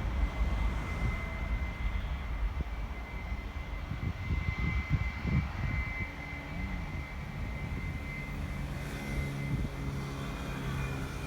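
Airplane engines running: a steady high whine over a low rumble, with a deeper, even hum joining from about eight seconds in.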